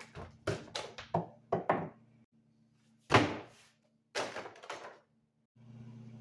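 A series of sharp knocks and thunks, hard objects being handled or set down, the loudest about three seconds in; a steady low hum starts near the end.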